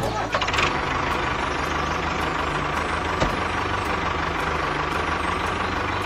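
Tractor engine running steadily, with a low rhythmic rumble and a faint steady whine.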